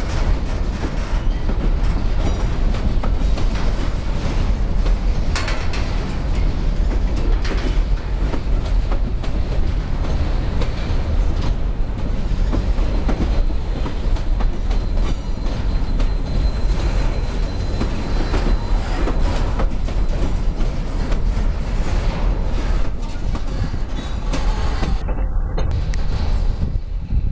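Empty hopper wagons of a freight train rolling past at close range, their steel wheels clicking and clanking over the rail joints, with a faint high squeal through the middle stretch. The last wagon goes by near the end.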